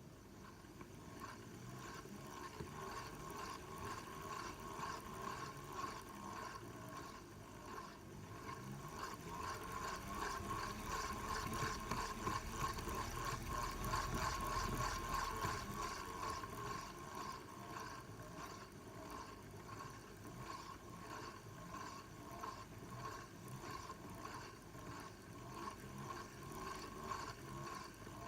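Shimano 18 Stella C5000XG spinning reel cranked by hand while fixed to a table: a continuous swishing whir with a gritty crackling and a rhythmic drone from the handle's vibration carried into the table, louder in the middle. It is an abnormal noise and vibration in the reel, which is not running smoothly.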